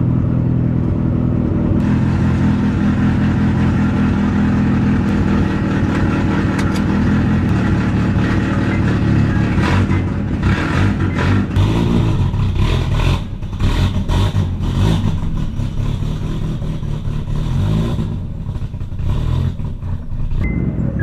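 Honda Prelude's engine idling steadily just after start-up. About halfway through, the sound turns uneven, with revving and a string of knocks and clunks.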